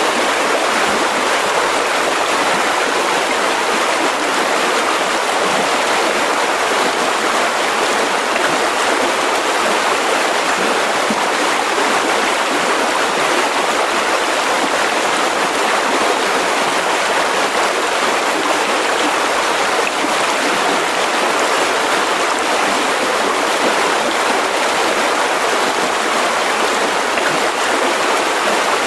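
Mountain river rushing over rocks: a steady, even rush of water with a bright hiss and little low rumble.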